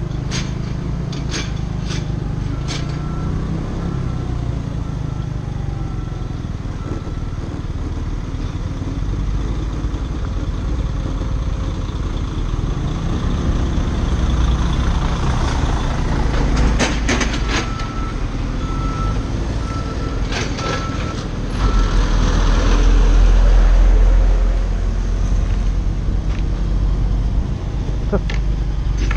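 Scooter engine running during a ride, with a steady-pitched beeping, as of a vehicle's reversing alarm, repeating in two stretches, early on and about two thirds through. A low rumble swells louder about three quarters through.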